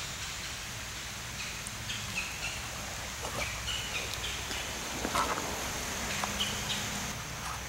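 Outdoor ambience: faint short bird chirps now and then over a steady low background noise, with a few soft clicks and rustles of the camera being moved over leaf litter.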